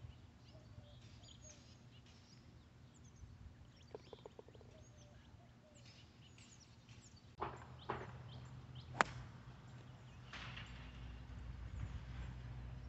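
Faint outdoor ambience with small birds chirping now and then, and a few sharp knocks past the middle, the sharpest about two-thirds of the way through.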